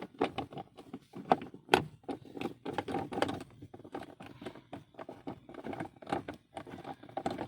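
Irregular clicks, light knocks and scrapes of hand tools and small parts being handled while a car's handbrake assembly is taken apart.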